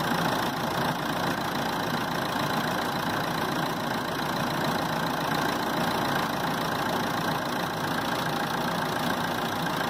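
Car engine idling steadily with the air conditioning switched on.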